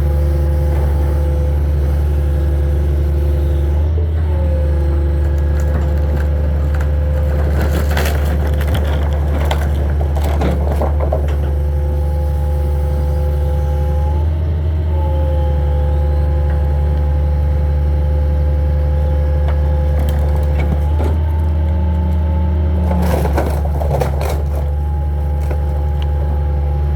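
Hitachi 225 excavator's diesel engine running steadily under load, with a whine that steps up and down in pitch as the machine works. Wood debris cracks and splinters in two bouts, about eight seconds in and again about twenty-three seconds in.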